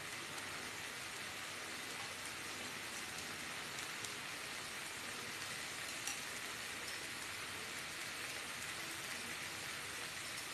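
Pork sizzling steadily on a nonstick pan, with a few small pops.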